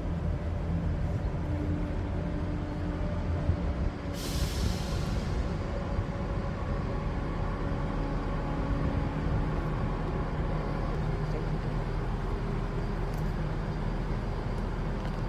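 Class 170 Turbostar diesel multiple unit running through the station with a steady diesel engine drone. A short hiss of air comes about four seconds in.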